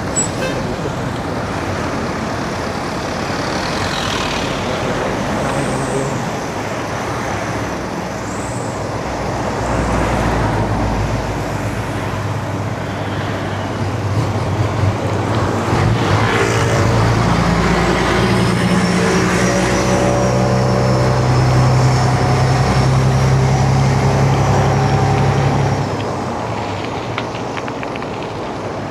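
Road traffic heard from a moving bicycle: a steady rush of motor vehicles. A little past halfway a heavy vehicle's engine drone grows loud close by for about ten seconds, then drops away near the end.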